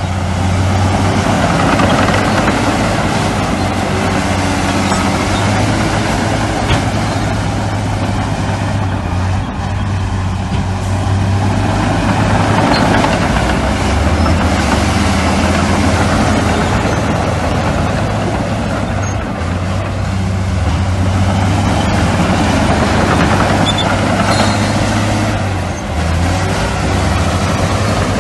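Heavy diesel engines of earthmoving machinery running steadily, with the engine note stepping up and down in pitch a few times.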